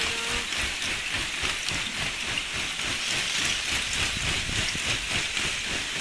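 Lake ice shove: a mass of broken ice pushing ashore, grinding and jostling as a steady crackling hiss.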